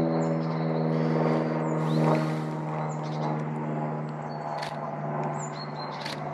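A steady engine drone, like a passing vehicle or light aircraft, fades away over the first few seconds while small birds chirp. A couple of sharp clicks come in the second half.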